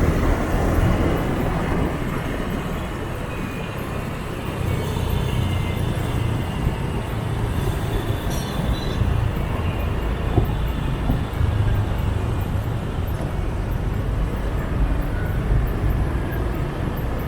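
Motorbike traffic heard from a moving scooter: steady engine and road noise, mostly low-pitched, with a brief click about ten seconds in.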